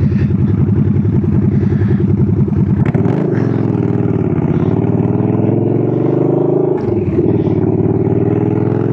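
Motorcycle engine running under way, its pitch climbing steadily, dropping sharply at a gear change about seven seconds in, then climbing again.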